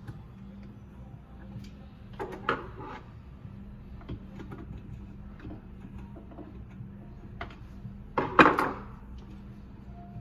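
Hands rummaging in a jammed garbage disposal: scattered small clicks and knocks, with two louder clatters, one about two and a half seconds in and one near the end, over a steady low hum.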